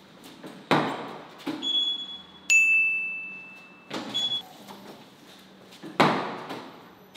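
Kingsong KS18L electric unicycle being lifted by its handle at the foot of a stair: two sharp knocks, about a second in and near the end, with short scuffs and faint beeps between them. A loud bright ding about two and a half seconds in rings on for over a second.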